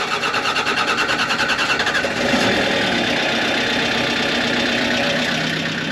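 Tractor engine cranked by the starter with a rapid, even chugging, catching about two seconds in and settling into a slow idle, slower than it cranked.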